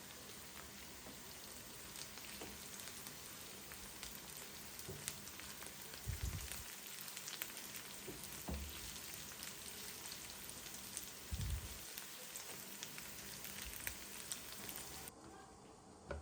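Food sizzling and crackling as it fries in a pan, with a few low thuds along the way; the sizzle stops abruptly near the end.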